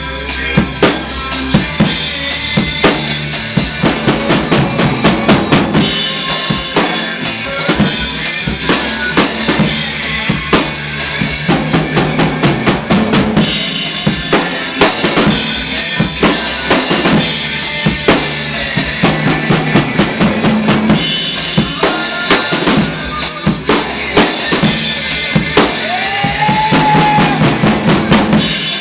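Drum kit played with fast, dense, continuous hits on bass drum and snare over rock music, with a bending melodic note near the end.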